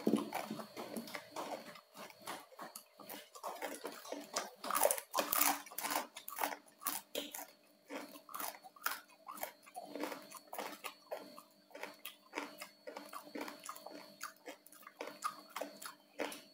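Close-up chewing and crunching of crispy-skinned roast pork (saucu), many sharp irregular crunches one after another.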